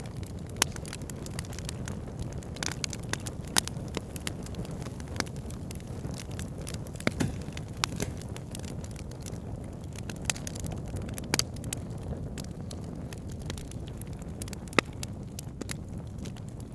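Wood fire burning in a fireplace: a steady low rumble of flames with irregular sharp crackles and pops, a few standing out louder.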